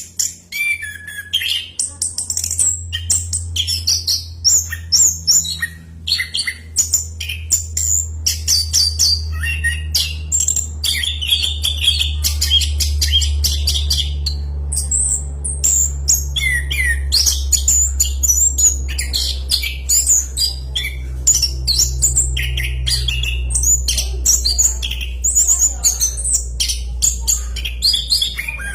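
Orange-headed thrush singing loudly and without a break: a long, fast run of varied whistled and chattering phrases. A steady low hum runs underneath.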